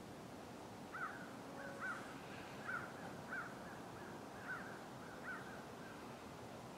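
A bird calling in a series of short notes, roughly one every 0.7 seconds, starting about a second in and stopping after about five seconds.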